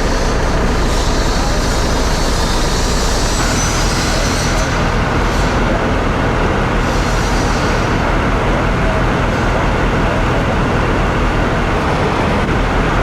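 Steady, loud rumble of a working structure fire, made up of the burning building and the fire apparatus running around it, with a hiss over the top for the first few seconds and again briefly later on.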